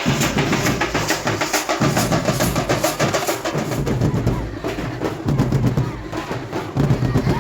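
Fast, steady drumming with heavy low beats, played as music.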